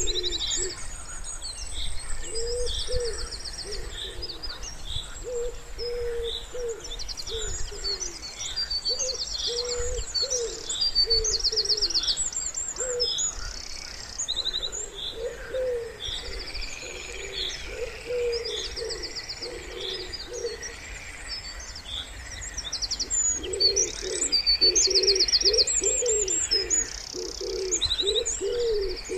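Wood pigeons cooing in repeated low phrases, several times over, while small songbirds sing high chirps and fast trills throughout.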